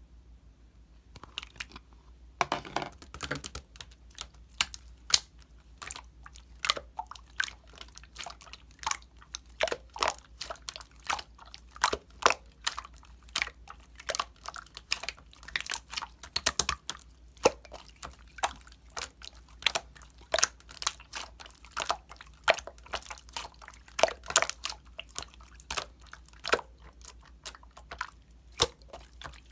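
Dense, irregular crunching that starts about a second in: many sharp, crisp crunches, a few a second, over a faint low hum.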